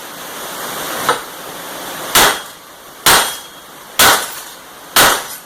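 Small sledgehammer striking a steel tire changer, about one blow a second: a light tap about a second in, then four hard blows, each ringing briefly.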